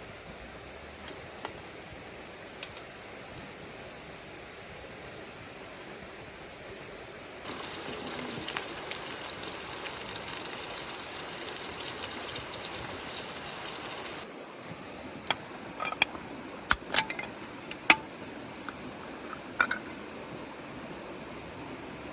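Liquid being poured in a steady stream for about seven seconds, followed by a handful of sharp clinks and knocks.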